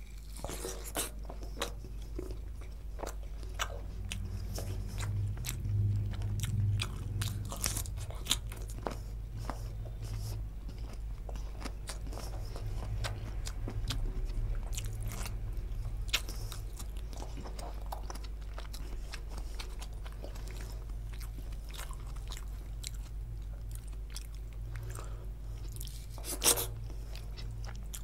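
Close-miked chewing and biting of curry-soaked bhature and mutton eaten by hand: wet mouth sounds with many short crunches and clicks, one louder crunch near the end.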